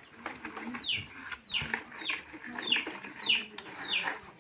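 A bird calling repeatedly, about six short falling notes, roughly two a second.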